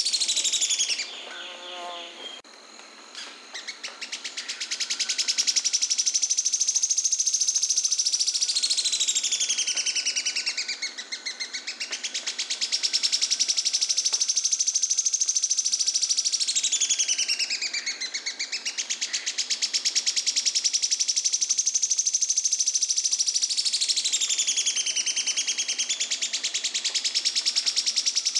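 Sharp-tailed streamcreeper (João-porca, Lochmias nematura) singing: a long, very fast dry trill that runs almost without a break, sinking lower in pitch and rising back about every seven seconds. About a second in there is a brief quieter gap with a few lower notes.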